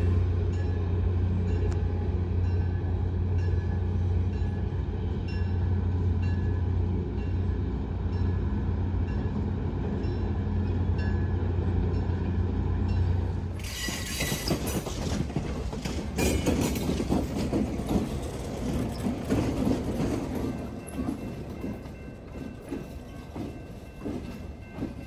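A diesel-hauled passenger train crossing a steel railroad bridge. For the first half it is heard from afar as a steady low engine drone; about fourteen seconds in it is close by, with wheels clattering and clicking over the rail joints as the cars roll past.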